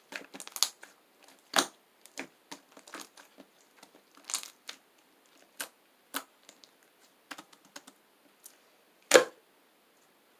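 Chocolate slime being played with by hand, giving irregular small clicks and pops, with one louder pop about nine seconds in.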